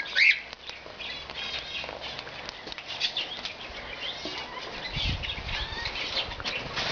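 Caged birds chirping and twittering, with a louder rising call just after the start and a low rumble about five seconds in.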